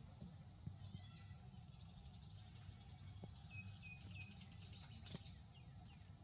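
Faint outdoor ambience: a steady high hiss over a low rumble, with a few short high chirps, three in a row just past the middle, and one sharp click about five seconds in.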